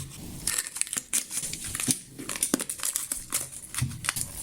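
Paper wrapping on the top of a firework cake being torn and crumpled open by hand, an irregular crackling and rustling.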